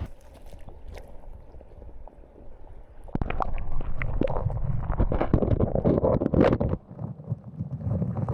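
River water splashing and gurgling, with irregular clicks and wind buffeting the microphone, louder for a few seconds in the middle.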